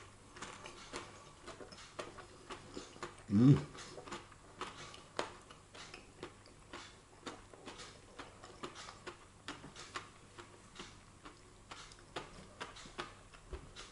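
A person chewing hot air-fried food close to the microphone: many small, irregular mouth clicks, with a short vocal murmur about three seconds in.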